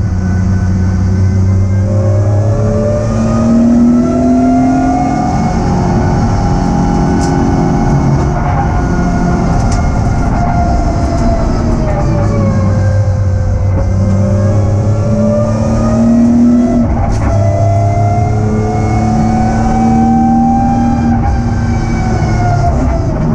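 BMW E46 M3's straight-six engine heard from inside the cabin under hard track driving, its note rising and falling several times as the revs climb and drop through gears and corners.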